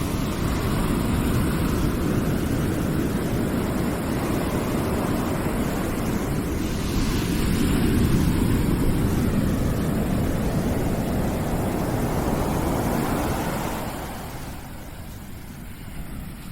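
Deep, steady rushing noise, swelling slightly about eight seconds in and dropping off for a couple of seconds near the end.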